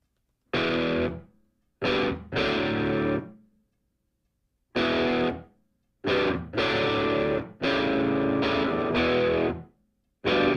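Background music: distorted electric guitar playing single chords that start sharply and die away, with gaps of silence between them.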